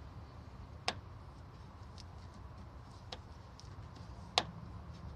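A Dodge Ram 1500's radiator cap clicking as it is turned without being pressed down hard enough to release: two sharp clicks about a second apart from the middle, one near the start and one near the end, and a fainter one between them, over a steady low rumble.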